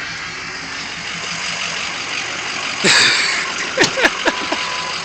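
Ford F-350 pickup engine idling steadily. About three seconds in comes a louder sudden sound, then several short, sharp downward-sweeping sounds.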